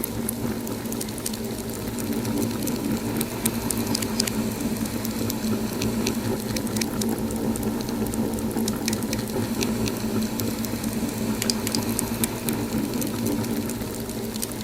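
Wood fire crackling in a fireplace: a dense scatter of small sharp pops and snaps over a steady low hum.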